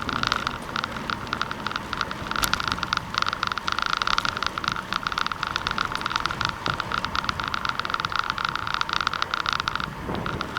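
Steady crackling road noise from riding a bicycle, made of tyres on the road and the bike's rattle, thinning briefly near the end.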